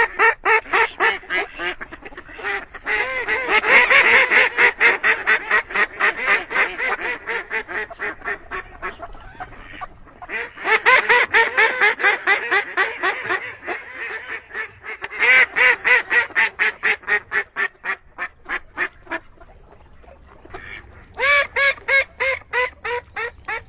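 Duck quacking in rapid runs of loud calls, several a second, with short pauses between the runs.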